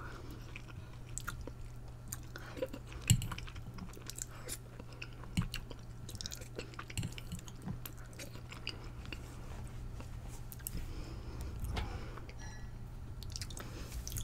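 A person chewing and eating close to the microphone, with many small scattered mouth clicks and bites, over a steady low hum.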